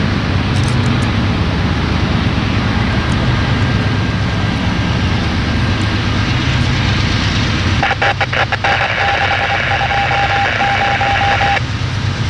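Freight train passing with a steady low rumble. About eight seconds in, a few clicks start a burst of radio static with a broken steady tone, which cuts off after about four seconds.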